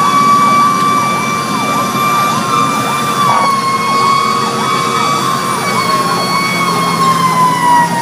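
Fire engine sirens running while responding. A steady high wail with many overtones slowly sinks in pitch, over an electronic siren sweeping up and down about twice a second, with the truck's engine rumbling underneath.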